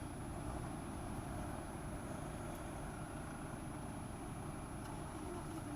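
Steady low rumble of vehicle engines idling in a traffic queue.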